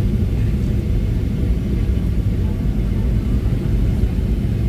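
Steady low rumble inside the cabin of a Boeing 737-700, from its CFM56-7B engines and airframe, with no distinct events.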